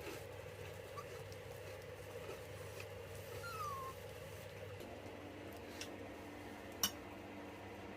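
A pet animal gives one short, high, falling cry about halfway through, over a steady low hum. A single sharp click comes near the end.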